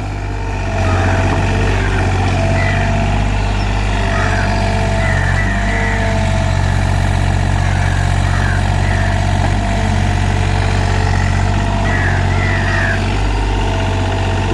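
Komatsu PC30MR mini excavator's diesel engine running at a steady speed.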